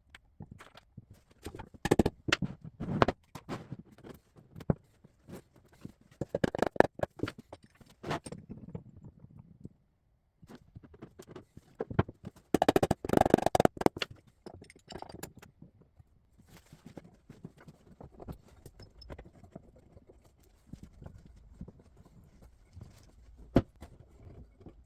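Irregular wooden knocks, clacks and scrapes of oak segments being handled and fitted together for a glue-up, in clusters, with one sharp knock near the end.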